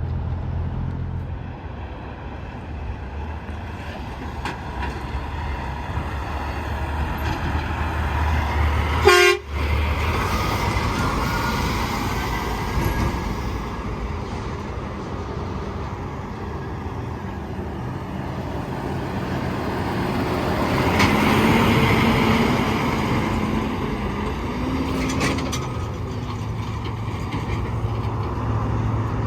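Semi trucks passing by on an interstate highway: engine rumble and tyre noise, swelling into a louder pass about two-thirds of the way through, with a sharp brief crack about nine seconds in.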